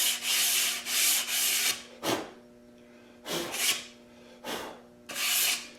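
Sanding block with very coarse sandpaper rubbed along the edge of a wooden tongue-and-groove board to break (round over) the edge. A run of quick back-and-forth strokes in the first couple of seconds, then single strokes with short pauses between them.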